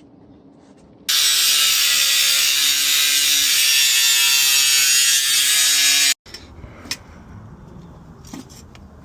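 Power tool cutting sheet steel for a rust-repair patch panel: a loud, steady rasping cut that starts suddenly about a second in and stops abruptly around six seconds in, followed by light clicks and handling of the metal.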